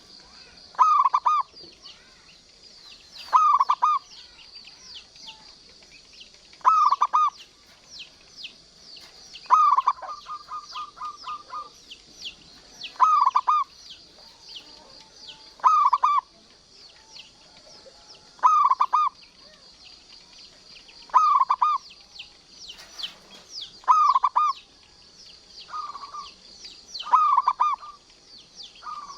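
Zebra dove (perkutut) cooing: a short bubbling phrase repeated about every two to three seconds, one of them running on into a rapid string of notes. Constant high chirping of small birds goes on underneath.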